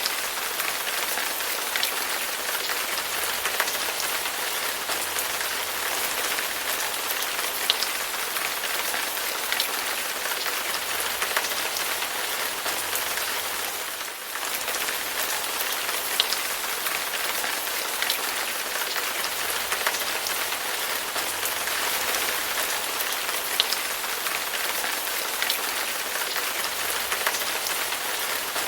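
Steady rain falling, an even hiss with a sharp drop tap standing out every couple of seconds; the level dips briefly about halfway through.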